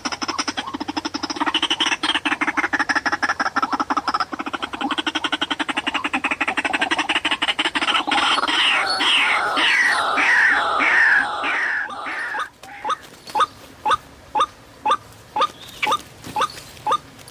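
White-breasted waterhen (ruak-ruak) calling: a fast, rattling run of croaking notes for about twelve seconds, ending in a string of falling notes. Then short rising calls come about twice a second.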